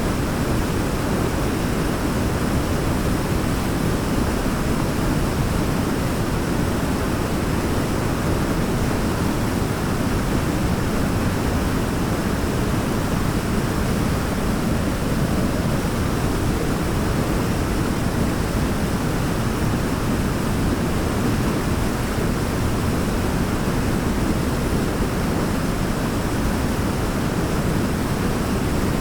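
Waterfall: a steady, unbroken rush of falling water, an even noise heaviest in the low end, with no change in level.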